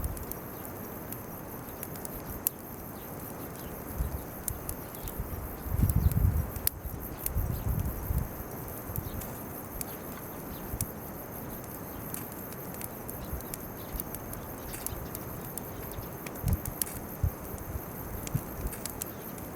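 Bonfire of weeds and chestnut burrs crackling, with scattered sharp pops throughout. A cluster of low thumps about six to eight seconds in is the loudest part, and a few more come near the end.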